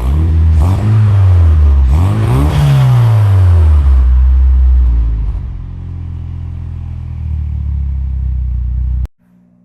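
Nissan 240SX engine revved twice, its pitch rising and falling with each blip, then settling to a steady idle while it warms up. The sound stops abruptly about nine seconds in.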